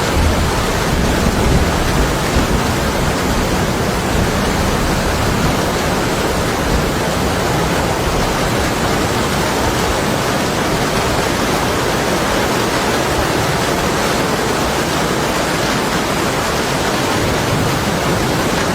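Heavy rain beating on window glass: a steady, dense hiss. A low rumble of distant thunder sits underneath, strongest in the first couple of seconds.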